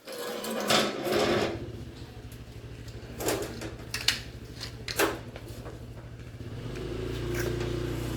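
A motor running steadily with several sharp metal knocks and clanks; the motor gets louder about six and a half seconds in.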